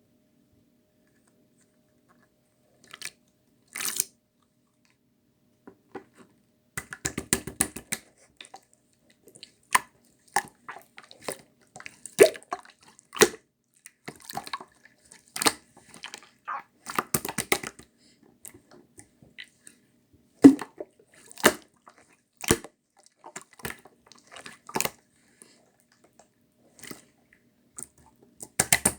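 Slime being squished and pressed by hand, giving irregular wet clicks, pops and crackles, some in quick bursts; it starts about three seconds in.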